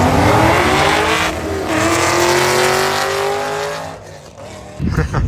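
A car accelerating hard on a drag-race pass, engine pitch rising, dropping briefly about a second and a half in as it shifts gear, then climbing again and fading away about four seconds in. A short loud knock near the end.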